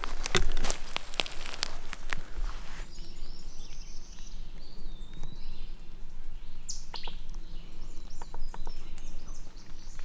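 Close rustling and clicking for about the first three seconds. Then small songbirds chirping, with a few more light clicks.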